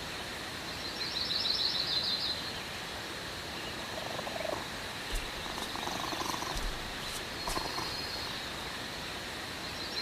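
Nature ambience of steady hiss with a short, fast bird trill about a second in and again at the end, and a few faint chirps in between.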